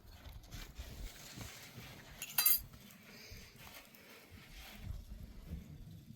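Livestock sounds with a low rumble, and one short, bright metallic clink about two and a half seconds in.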